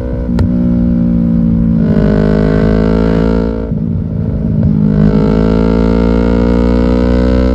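Yamaha R6 inline-four motorcycle engine running loud through an aftermarket exhaust. The engine note climbs, drops sharply a little before the middle, then climbs steadily again.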